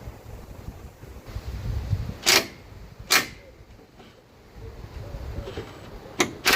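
Four short blasts from a compressed-air blow gun, about two and three seconds in and twice close together near the end, cleaning dust and grass out of a lawnmower's air filter.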